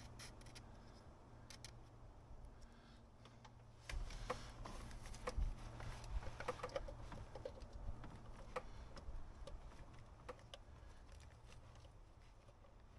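Faint scattered clicks and taps of small parts being handled and fitted, busier from about four seconds in, with a low rumble underneath.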